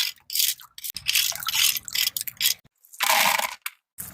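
A hand rake scraping and rattling over shells and rock in a run of short, irregular strokes.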